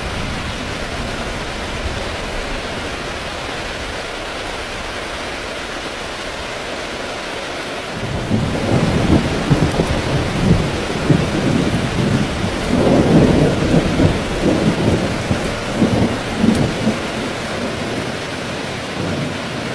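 Heavy rain falling in a steady hiss. About eight seconds in, a long rolling rumble of thunder builds with uneven loud cracks and peals, lasting about nine seconds before dying back under the rain.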